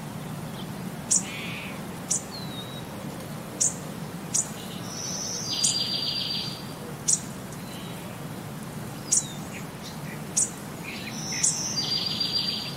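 Birds chirping: short, sharp high chirps every second or so and a buzzy high trill about every seven seconds, over a low steady hum.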